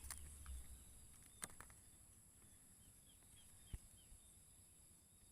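Faint rural ambience: steady high-pitched insect buzzing, with a series of short, faint bird chirps and a couple of sharp clicks.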